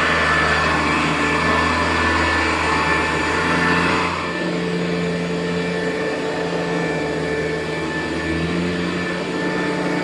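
Hoover U4007 vacuum cleaner running steadily on carpet, its motor and brushroll going with a steady hum and airflow hiss. About four seconds in, the hiss drops and the sound gets a little quieter.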